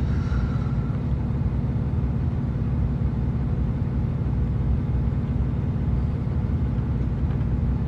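Truck engine idling, heard from inside the cab as a steady low hum.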